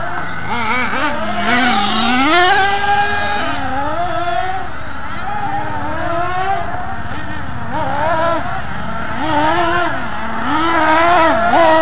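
Monster truck engine being revved during warm-up, its pitch swinging up and down again and again, about once a second.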